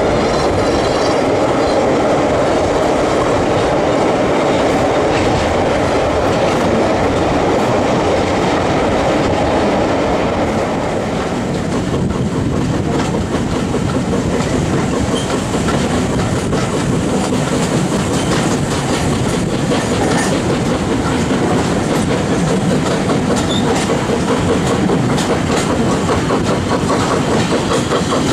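Steam-hauled passenger coaches running at speed, heard from a carriage window: the wheels' clickety-clack over the rail joints under a steady rush of running noise. The noise thins and dips slightly about eleven seconds in.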